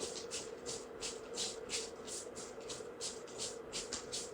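Soft rhythmic swishing about three times a second: clothing and body moving as a dancer twerks, opening and closing her legs, over a faint steady hum.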